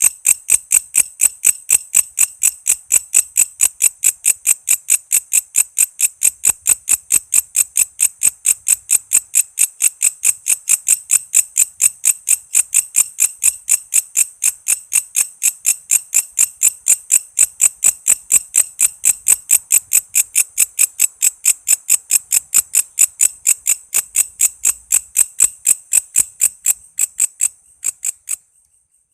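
Walang kece insect calling in a long, even train of sharp, high chirps, about three to four a second. The chirps stop abruptly near the end.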